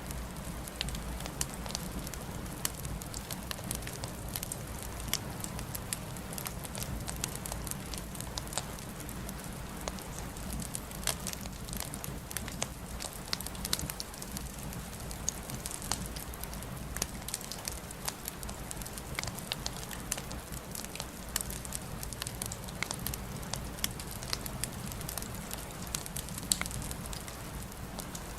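Wood fire in a fireplace crackling, with many small irregular pops and snaps over a steady low rumble of the flames.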